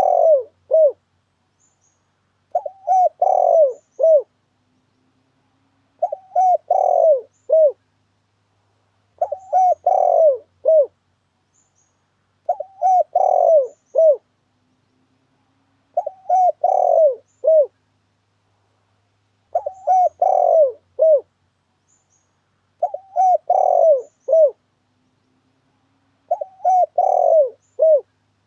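Spotted dove (tekukur) cooing: the same short phrase of several coos, repeated about every three and a half seconds. It is a lure call played to draw wild spotted doves to a trap.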